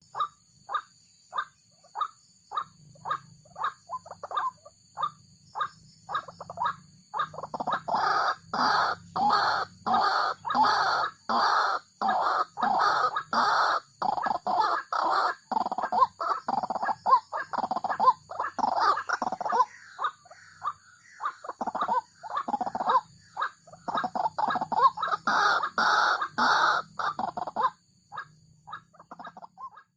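White-breasted waterhen (ruak-ruak) calling over and over in short harsh notes about two a second. The notes start out spaced, become a loud, continuous run several seconds in, break off briefly around twenty seconds, swell again, then trail away into sparse notes near the end.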